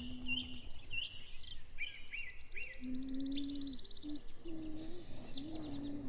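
Songbirds chirping outdoors, with repeated short chirps and a fast, high, even trill in the middle, over a low rumbling background noise.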